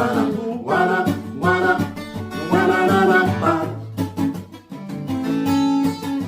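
Acoustic guitar strummed with a voice singing phrases over it, a reggae song played as an acoustic cover.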